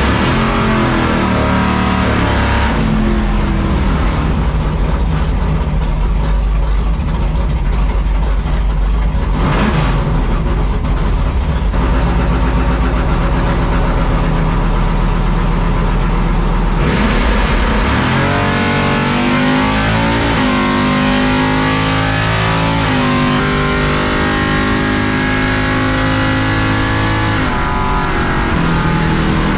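Chevrolet C10 drag truck's engine running loud and low for a long stretch, then launching about two-thirds of the way in and revving up through the gears, its pitch climbing in several steps before it lets off near the end.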